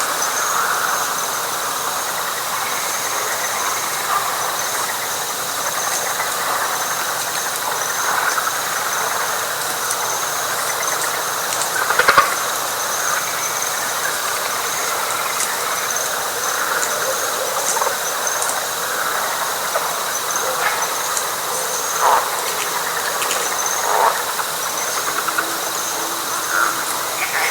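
Night chorus of frogs and insects in wet pine flatwoods: a dense, continuous frog chorus with louder individual calls standing out now and then, the loudest about twelve seconds in. Above it runs a steady, high, pulsing insect trill.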